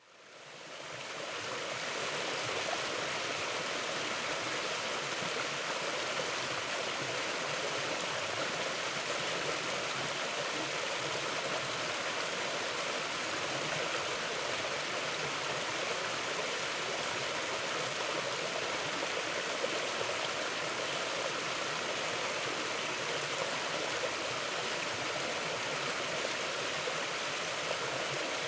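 Mountain stream flowing steadily, a continuous rushing of water that fades in over the first two seconds and then holds even.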